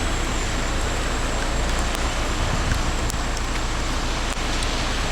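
Steady hiss of heavy rain and running floodwater, with a few faint ticks.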